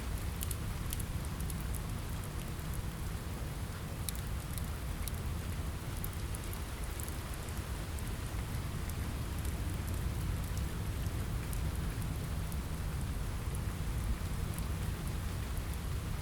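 Steady rain on a window, with a deep, even rumble underneath and scattered sharp crackles and ticks from a wood fire in a fireplace.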